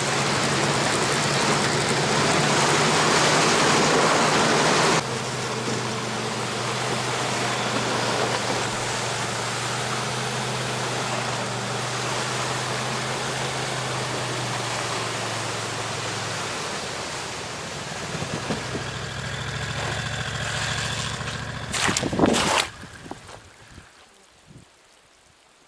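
A small engine running steadily under a loud rushing noise; the engine note stops about two-thirds of the way through, and the rushing ends a few seconds later with a couple of knocks.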